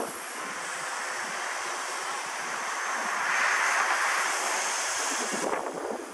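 Walkera V120D02 micro RC helicopter's electric motor and rotor blades running with a high whine and whoosh, getting louder in the middle and dropping off suddenly near the end, with gusty wind buffeting the microphone.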